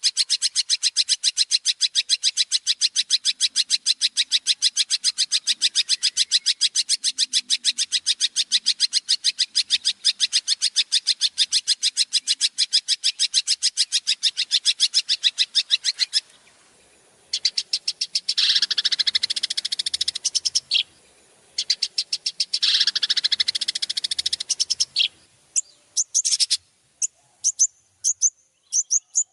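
Songbird singing a fast, even series of sharp high notes, about eight a second, for some sixteen seconds. Then come two harsh, rasping phrases of about two seconds each, and a few scattered high notes near the end.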